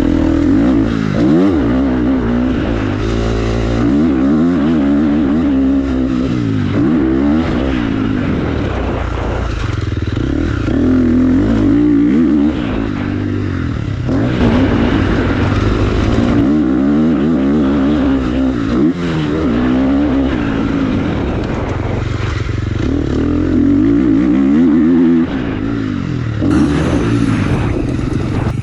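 Motocross bike engine revving up and down as it is ridden, its pitch rising and falling again and again every few seconds.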